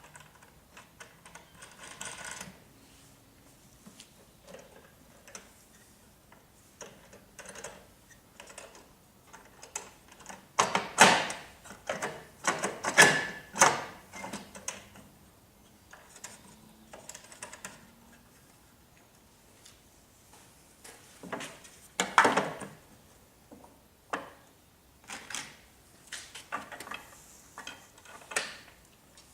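Clicks, knocks and rattles of router table fence parts being handled and bolted together by hand: metal coach bolts, plastic knobs and plastic fence extenders. The clatter is loudest from about eleven to fourteen seconds in and again briefly about twenty-two seconds in.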